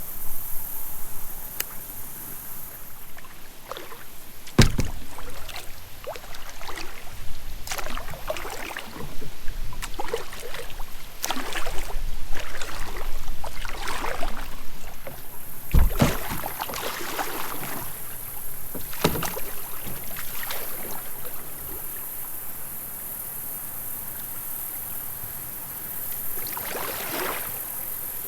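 Kayak paddle strokes splashing in creek water, with two sharp knocks, about five seconds in and again about sixteen seconds in. The strokes thin out in the second half.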